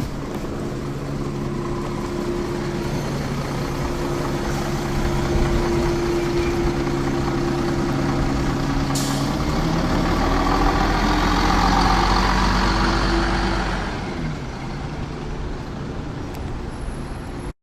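Ikarus 435 articulated bus's diesel engine running steadily; about nine seconds in a short hiss of compressed air, then the engine note rises and grows louder as the bus accelerates, easing back about fourteen seconds in. The sound cuts off abruptly at the end.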